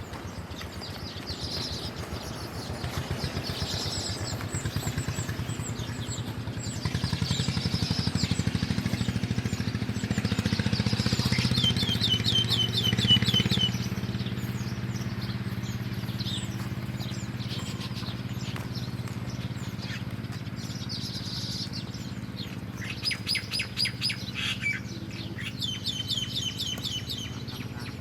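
Small birds chirping, with quick trills of rapidly repeated notes about twelve seconds in and again near the end. Underneath runs a steady low drone that swells in the middle.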